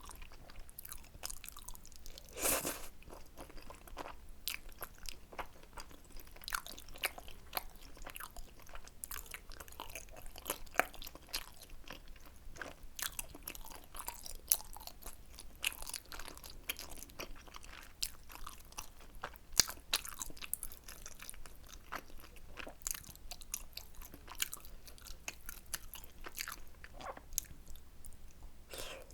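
Close-miked eating sounds of spicy tteokbokki: continual chewing and biting, made of many short wet clicks and smacks, with one louder bite about two and a half seconds in.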